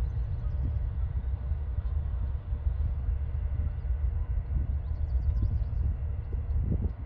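Train running with a steady low rumble, which drops off sharply at the very end.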